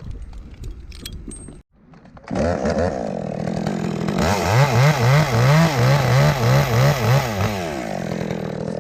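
Chainsaw starting to run about two seconds in, its engine note rising and falling in quick waves, about three a second, for a few seconds, then holding steadier.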